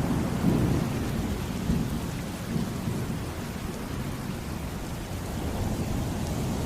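Steady heavy rain with a low rolling rumble of thunder, strongest in the first couple of seconds and then easing off.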